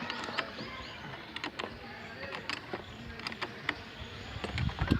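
Scattered sharp clicks and light metallic taps from hand tools, a few a second at uneven spacing, over a faint steady background. Dull low knocks of handling come near the end.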